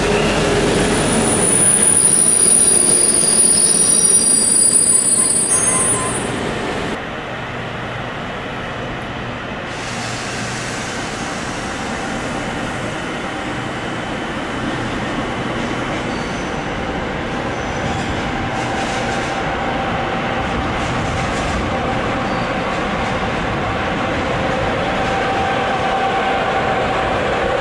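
Electric locomotive and double-deck coaches rolling past on the platform, with high-pitched wheel squeal for the first six seconds or so. The sound then drops to a steadier, lower rumble of rail traffic across a station yard, with a humming tone growing toward the end.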